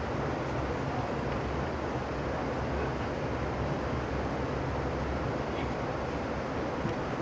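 Steady rumble and rushing noise of a moving Amtrak passenger train, heard from on board.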